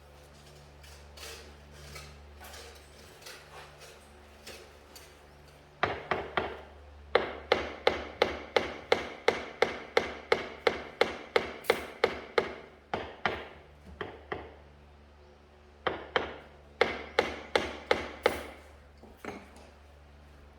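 Repeated hammer blows in two runs, about three strikes a second, each with a metallic ring.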